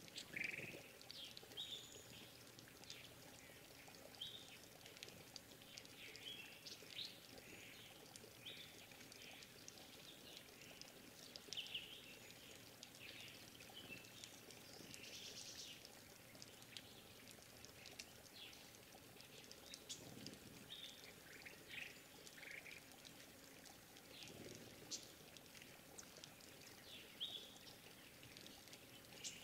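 Small forest birds giving short, high chirps and calls, scattered and irregular, over a faint trickle of water.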